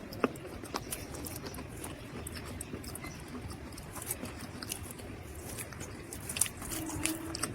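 Dry mud crunching in irregular, scattered sharp crackles over a low steady background, with a few louder crunches, one just after the start and one near the end.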